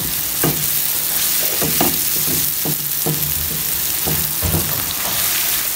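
Diced potatoes, onions and tomatoes with spices sizzling in oil in a non-stick pan, steady hiss throughout, while a wooden slotted spatula stirs them with repeated scrapes and soft knocks against the pan about once or twice a second.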